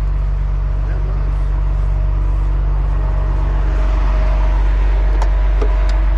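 Heavy tow truck's diesel engine running steadily, with a couple of short sharp clicks near the end.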